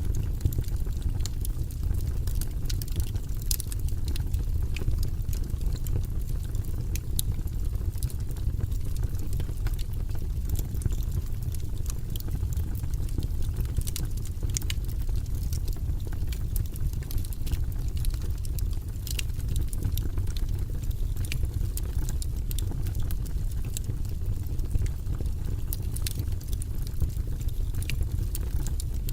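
Campfire crackling and popping, with scattered sharp snaps over a steady low rumble.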